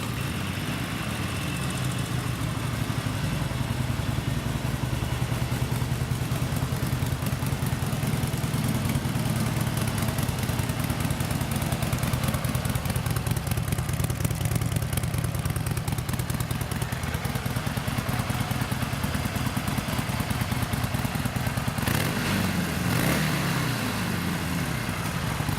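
Harley-Davidson Sportster 1200's fuel-injected 1200cc V-twin running at idle through chrome staggered pipes, steady, with the throttle blipped a couple of times near the end.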